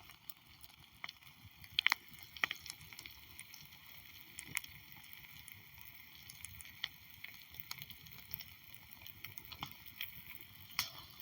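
Wood fire crackling and popping softly, with a few sharper snaps about two seconds in and another near the end.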